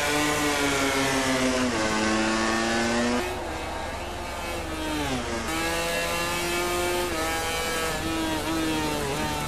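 MotoGP racing motorcycle engine, a 1000 cc four-cylinder four-stroke. Its high-pitched note falls in steps over the first few seconds as the gears come down, then holds steady under power with a brief dip near the end at a gear change.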